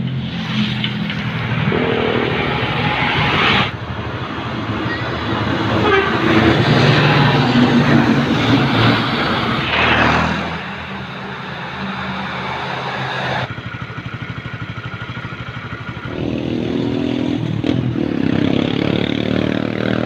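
Heavy diesel truck engines running on the road, with road and wind noise, in several short shots that cut abruptly from one to the next.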